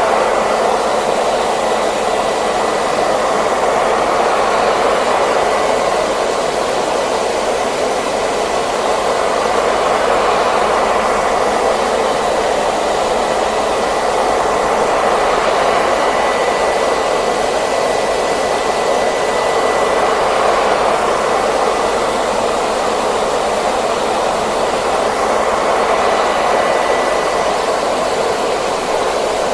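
Hair dryer running continuously: a steady rush of air with a thin high whine, swelling gently every few seconds.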